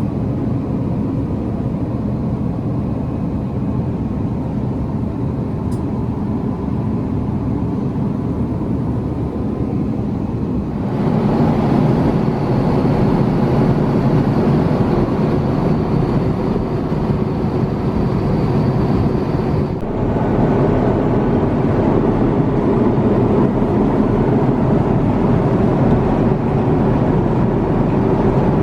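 Airbus A350-900 cabin noise in flight: a steady roar of jet engines and airflow. It gets abruptly louder and brighter about ten seconds in and shifts character again about twenty seconds in.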